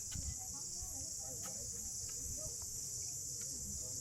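Steady high-pitched chorus of insects at dusk, unbroken throughout, with a few faint clicks and a low rumble beneath it.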